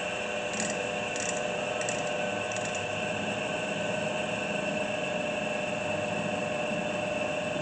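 Grizzly G0592 horizontal bandsaw's 2 hp motor and drive running steadily at a slowed speed setting, its wheels spinning with no blade fitted. A light tick repeats about every two-thirds of a second in the first few seconds.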